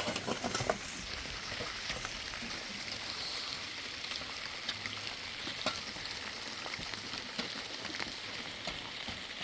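Steady rain falling: an even hiss with scattered sharper taps of drops.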